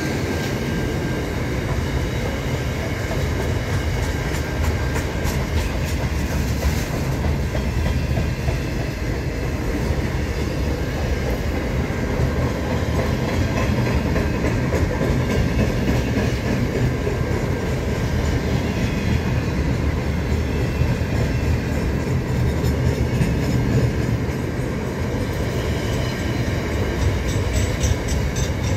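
A train rolling past: a steady rumble of wheels on rails with scattered clacks.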